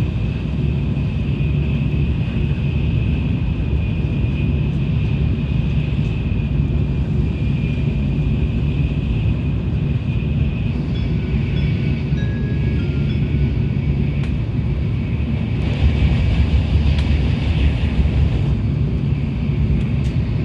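Tokaido Shinkansen train running at speed, heard from inside the carriage: a steady rumble of wheels and running noise, which swells for a couple of seconds about three quarters of the way through.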